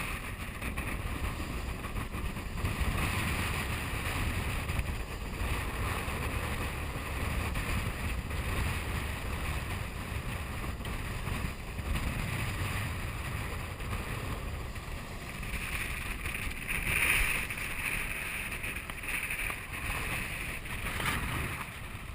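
Wind buffeting the microphone over the rush of water around a sailboat under way, steady with gentle swells and a brief louder gust about two-thirds of the way through.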